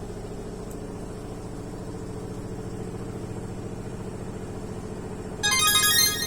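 Washing machine running with a steady low mechanical hum. A short, bright electronic jingle cuts in about five and a half seconds in.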